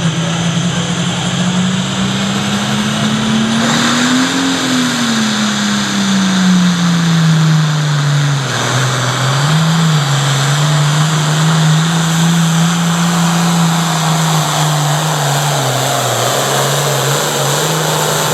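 Classic Super Stock pulling tractor's turbocharged diesel engine running hard under load during a pull. Its pitch climbs for the first four seconds or so, then drops and wavers up and down as the run goes on.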